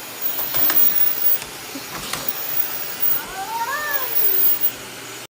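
A cat meowing once, a drawn-out call that rises then falls, starting about three seconds in. It follows a couple of short sharp knocks over a steady background hiss.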